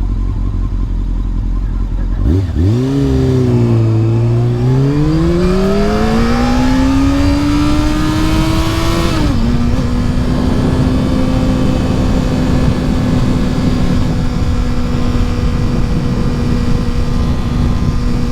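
Honda CBR sport bike engine pulling away, its note climbing steadily for about seven seconds. It then drops at a gear change and holds a steady pitch while cruising.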